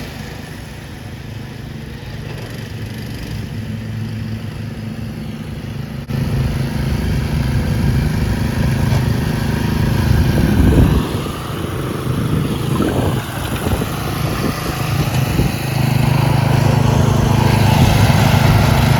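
Small lawn tractor engine running. It gets louder about six seconds in, is revved up and down a couple of times around ten to thirteen seconds in, then runs steadily and louder near the end.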